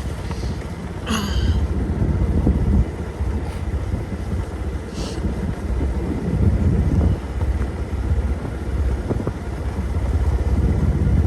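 Motorcycle ride: a low engine and road rumble with wind buffeting the microphone. A brief high chirp comes about a second in.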